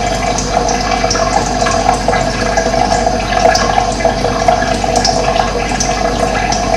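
Running water rushing steadily, with short bird chirps now and then above it.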